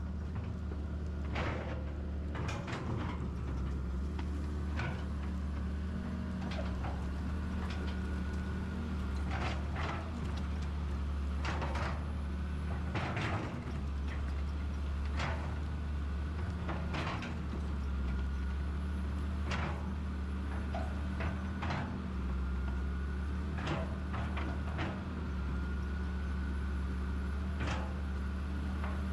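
Excavator's diesel engine running steadily with a faint high whine, and irregular clanks and knocks as the machine works.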